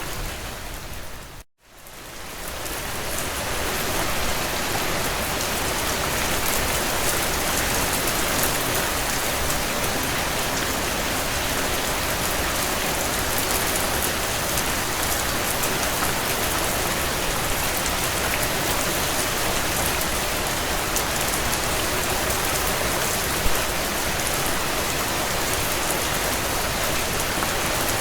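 Heavy rain falling steadily on window panes: an even hiss with fine ticks of individual drops. Soon after the start the sound drops out to silence for a moment and fades back in over a couple of seconds.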